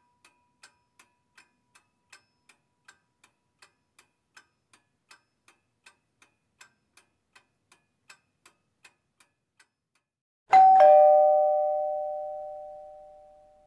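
A clock ticking faintly and evenly, about three ticks a second, stops about nine seconds in. A second later comes a loud two-note ding-dong chime, higher note then lower, like a doorbell, ringing out slowly.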